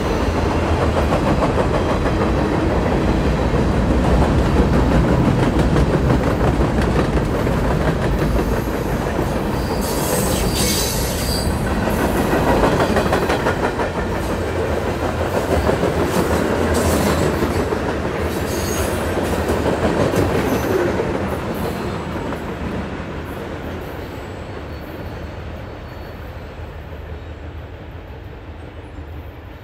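Freight cars of a mixed freight train (boxcars, tank car, covered hoppers) rolling past with steady wheel-on-rail rumble and clatter, and brief high wheel squeals about ten and nineteen seconds in. The sound fades away over the last several seconds as the end of the train moves off.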